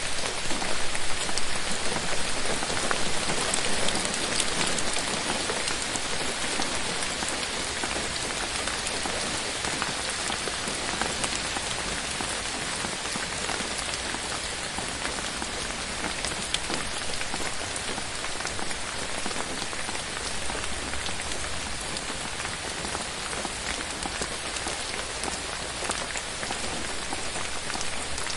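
Steady rain falling, with many close individual drops tapping throughout; it is a little heavier in the first few seconds.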